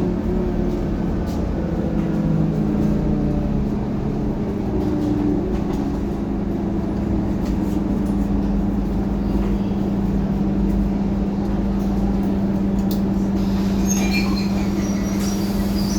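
Scania K230UB city bus's diesel engine running with a steady drone, its note falling over the first few seconds and then holding steady.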